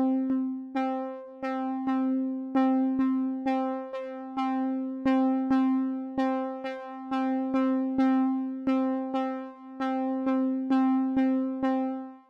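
Instrumental song intro on a synthesizer keyboard: a single note struck over and over, each one decaying, about two to three times a second.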